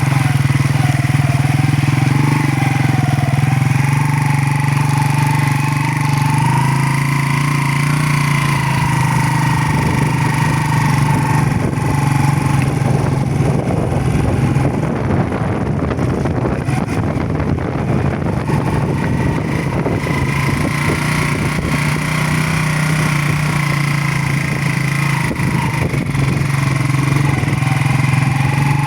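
Motorcycle engine running at a fairly steady speed while riding. About a third of the way in, the even tone turns rough, with a dense clatter of small knocks, for around ten seconds before it steadies again.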